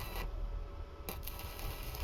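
Workshop noise: bursts of high hissing, a short one at the start and a longer one from about a second in, over a steady low rumble.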